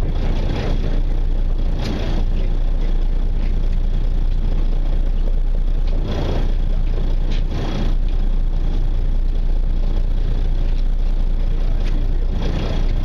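Fishing boat's engine running with a steady low rumble, with a few brief louder rushes over it.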